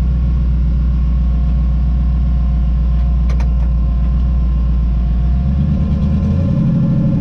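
Twin-turbo Camaro's engine running with a steady low rumble. There is a brief click about three and a half seconds in. Near the end the engine note rises as the car is driven off in reverse.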